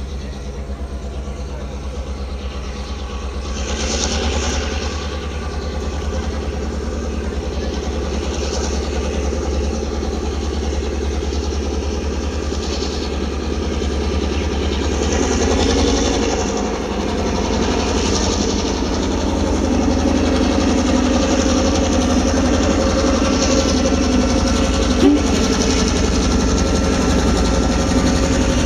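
Approaching train led by a diesel locomotive: a low engine rumble grows steadily louder as it nears. There is one short knock about 25 seconds in.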